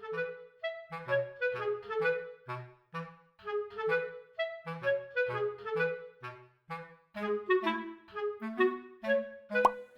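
Light, bouncy background music: a staccato clarinet melody over a bass line, with a short sharp sound effect near the end.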